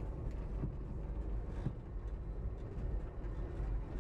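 Passenger train running, heard from inside a sleeper roomette: a steady low rumble with a few faint knocks. The track is rough and the car jounces.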